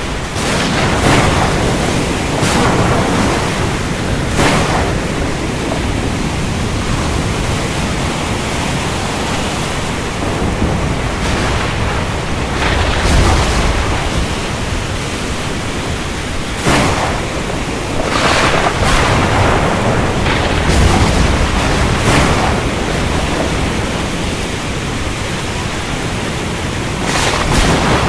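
Thunderstorm at sea: a steady rushing noise of rain, wind and waves, with about a dozen short sharp cracks scattered through it and low rumbles of thunder, strongest about halfway through and again a little later.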